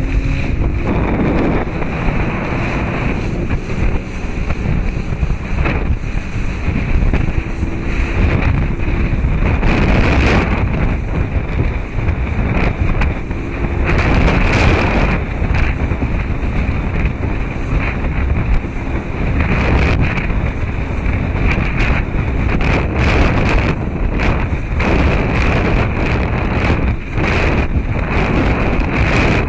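Wind buffeting the microphone over rushing water, with a faint low engine hum underneath, as on a moving motorboat.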